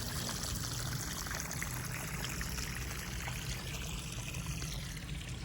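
Water flowing steadily from a garden hose pipe into an irrigation furrow between the garden beds.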